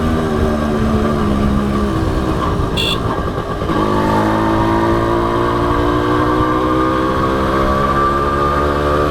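Honda H100S motorcycle's small single-cylinder four-stroke engine under way: the revs drop off for about two seconds, then, after a short rough patch with a brief high chirp about three seconds in, the engine pulls and its pitch climbs steadily as the bike accelerates.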